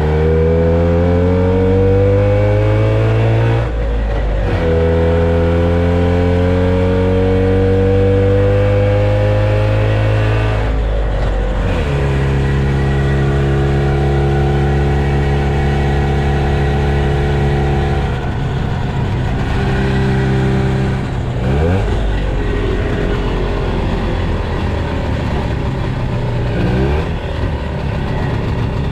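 Velorex cyclecar's rear-mounted 350cc Jawa two-stroke twin pulling through the gears, heard from inside the cabin. The engine note climbs, breaks off at gear changes about four and eleven seconds in, then holds a steady cruising note, with a few brief dips later on.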